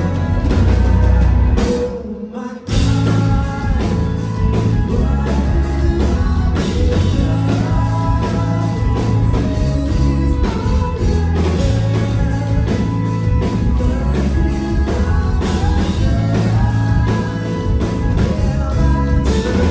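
Rock band music; it drops away briefly about two seconds in, then comes back in full.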